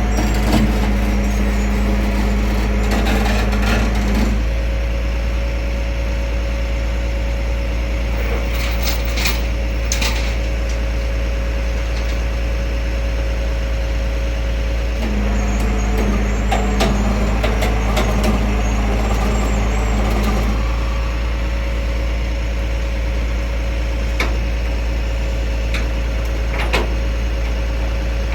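Tow truck's engine running steadily while its hydraulics load a pickup onto the bed. The hum's tone drops in pitch for a few seconds near the start and again around the middle as the controls are worked. Scattered knocks and clanks come from the bed and chains.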